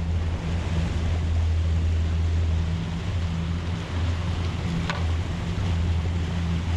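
A boat's outboard engine running steadily with a low hum, over wind and water noise. A brief click about five seconds in.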